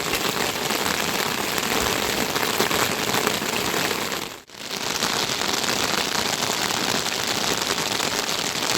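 Steady rain coming down, a dense even hiss. It drops out for a moment about halfway through, then comes straight back.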